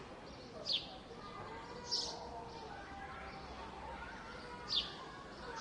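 Park ambience with a songbird giving three sharp chirps that fall in pitch, over a low background of distant voices and city hum.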